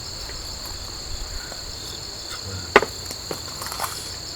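Steady high-pitched chorus of insects singing, with a few small clicks and knocks over it, the sharpest a little under three seconds in.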